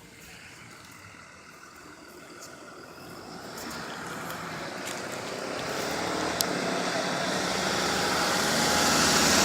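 A vehicle's noise growing steadily louder as it approaches, a rushing sound with a faint engine hum, loudest near the end.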